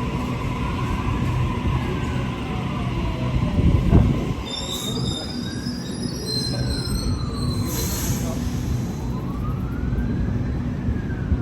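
Suburban electric train rumbling steadily at the platform, with a high metallic wheel squeal in the middle and a thump about four seconds in. A siren wails slowly up and down three times behind it.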